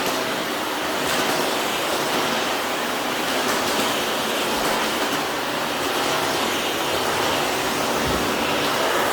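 Vacuum cleaner running, a steady noise with gentle swells in level.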